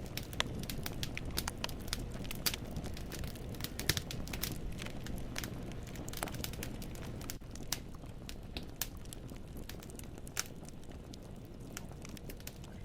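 Wood fire burning in a fireplace, logs crackling and popping in many sharp irregular snaps over a steady low rumble of the flames.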